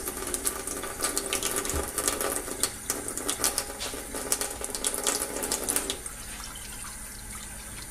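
Hot water being poured into a container, a splashing fill that stops about six seconds in, leaving a faint hiss.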